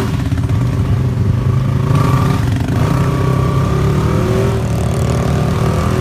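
Polaris RZR side-by-side's engine running steadily, with a higher whine that swells and wavers in pitch in the middle.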